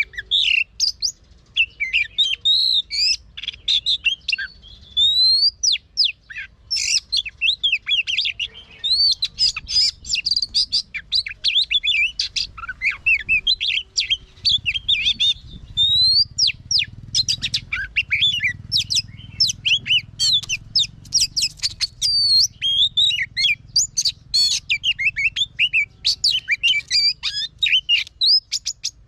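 Oriental magpie-robin singing continuously: a fast, varied run of sharp whistled notes, many sliding up or down, mixed with chattering clicks, with hardly a pause.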